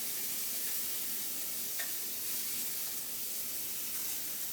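Steady, even hiss of background noise, with one faint click about two seconds in.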